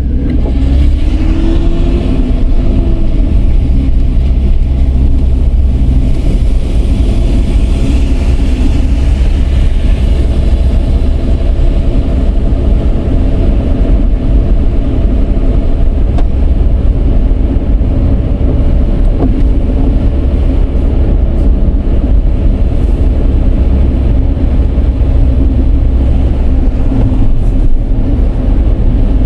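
Dodge Charger's 3.5-litre V6 running while driving, over a heavy low road rumble. The engine pitch rises over the first couple of seconds as the car accelerates, then holds steady.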